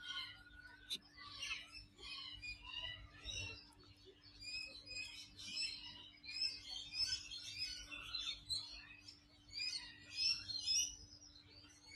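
Many small birds chirping, a busy run of short, high calls overlapping throughout, with a faint steady hum underneath.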